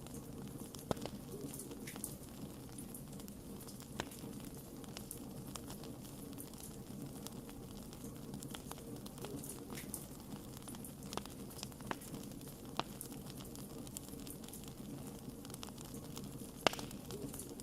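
Wood fire burning, with irregular sharp crackles and pops over a steady low rumble of flame; a few louder pops near the end.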